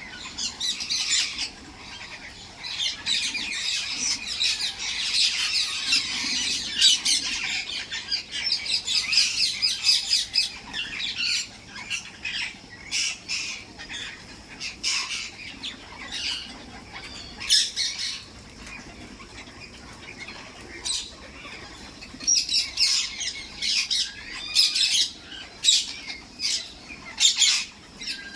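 Parrots squawking and chattering: a dense run of overlapping calls for the first third, then sharp single squawks spaced out, crowding together again near the end.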